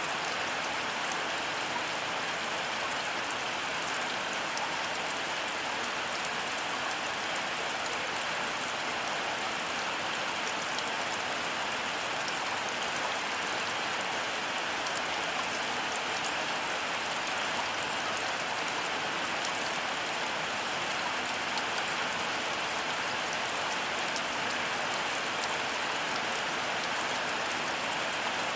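Heavy rain falling steadily: an even, dense hiss of many drops hitting surfaces, with no change in strength.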